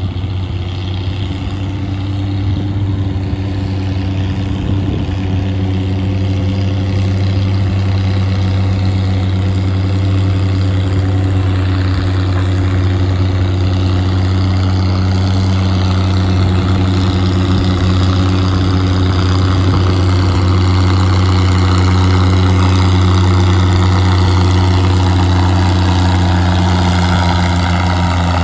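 Oliver 88 tractor's six-cylinder engine running steadily under heavy pulling load as it drags a weight sled down the track, a deep even note that grows gradually louder.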